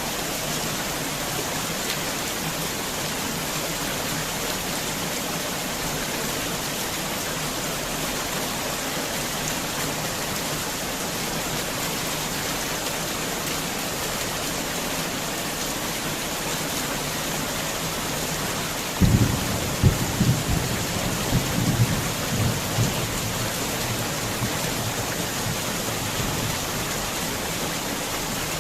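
Heavy rain falling in a steady, even hiss. About two-thirds of the way through a roll of thunder breaks in suddenly, a few seconds of low rumbling and cracking, the loudest sound, then the rain carries on alone.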